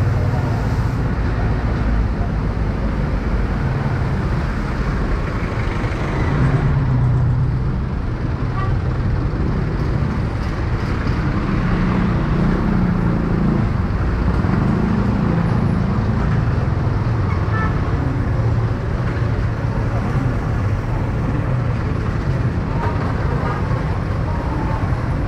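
Motorcycle riding through road traffic: its engine runs steadily with a note that rises and falls, over continuous road and traffic noise.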